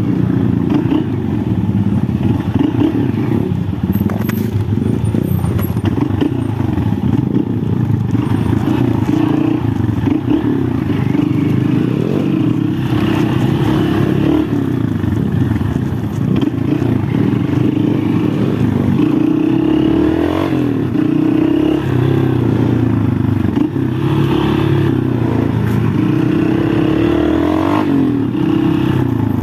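Honda XR 190 enduro motorcycle's single-cylinder four-stroke engine running under load, its revs rising and falling.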